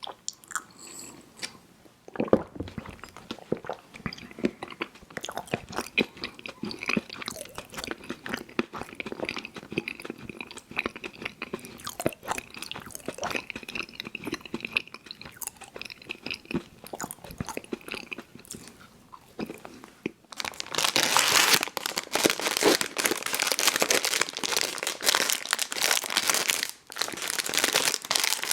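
Close-miked chewing of chewy fruit candies (Airheads Bites and Tootsie Fruit Chews), with wet smacking and small clicks of the mouth. About twenty seconds in it gives way to louder, continuous crinkling, like a plastic candy wrapper or bag being handled.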